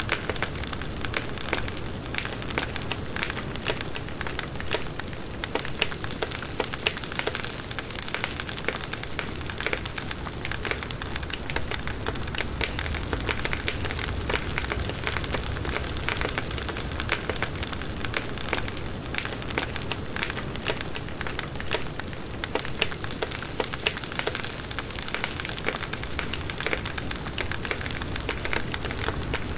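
Firewood burning in a campfire: a steady hiss of flames with dense, continuous crackling and small pops.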